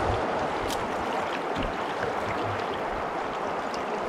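Steady rush of river water flowing over a riffle, with a few faint ticks.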